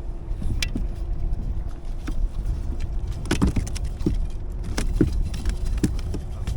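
Low wind rumble on the microphone with scattered clicks and knocks of handling on a fishing kayak while a just-caught lizardfish is being dealt with.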